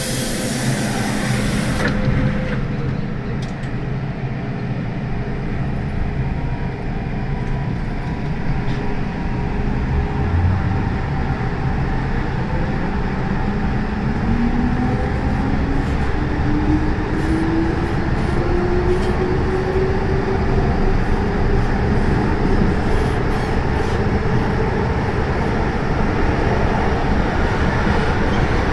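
MTR M-Train electric multiple unit running, with a brief hiss at the start. From about twelve seconds in, the traction motors whine, rising steadily in pitch as the train accelerates, over the constant rumble of the wheels on the track.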